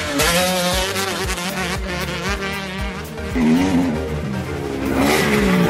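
Two-stroke motocross bike engine running hard, its buzzing note rising and falling again and again as the rider works the throttle through the gears.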